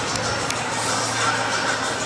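Hockey-arena crowd noise over a steady low hum, with the last couple of claps of applause dying out in the first half-second.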